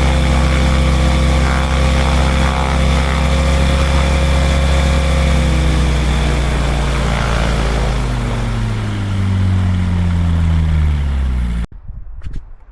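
Pipistrel Virus SW's Rotax four-cylinder engine and propeller held at high power (about 5,000 RPM) in a brake-hold run-up, then throttled back, the pitch falling over several seconds before the sound cuts off abruptly. A few faint clicks follow.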